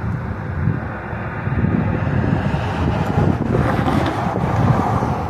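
Gusty wind blowing across the microphone, heard as a low, uneven rumble with a softer rush above it, as a thunderstorm's wind picks up.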